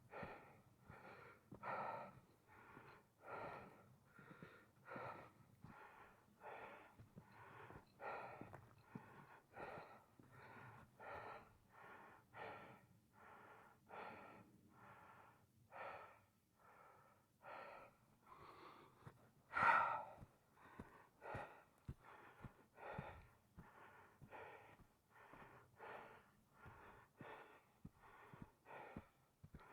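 Footsteps crunching through ice-crusted snow, an even walking pace of about one and a half steps a second, with one louder crunch about twenty seconds in.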